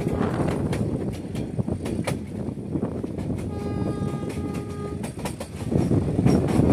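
Metre-gauge passenger train running, its wheels clicking over the rail joints under a steady rumble. The YDM4 diesel locomotive's horn sounds once for about a second and a half around the middle. The rumble grows louder near the end.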